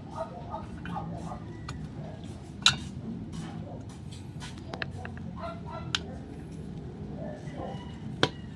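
A few sharp clicks or taps, the loudest about two and a half seconds in and others near six and eight seconds, over a steady low background hum.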